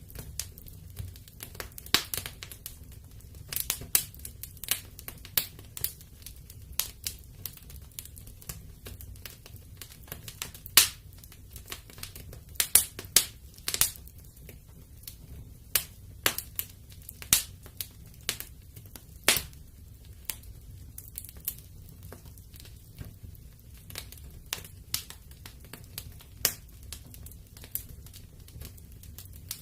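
Wood fire crackling in a fireplace: irregular sharp pops and snaps of burning logs, some much louder than others, over a low steady rumble of the flames.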